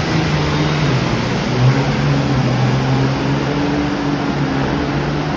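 Diesel farm-tractor engine running loud, its pitch shifting up and down over a broad din.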